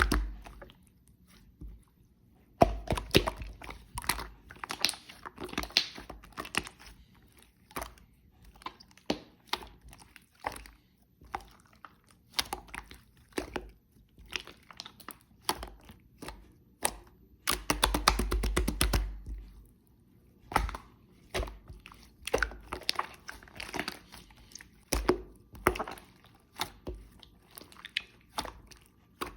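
A spoon clicking and scraping against a glass or jar while stirring strawberry jam into milk, in irregular runs of quick taps, with a dense flurry of fast clicks a little past halfway.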